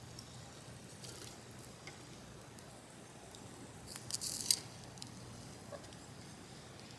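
Faint sizzling and small ticks from food browning on a small iron griddle over a compact stove, with a brief scrape or clatter about four seconds in.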